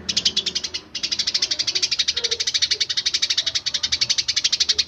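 Eurasian tree sparrows chirping in a rapid, unbroken stream of short high chirps, about a dozen a second, with a brief pause just before one second in.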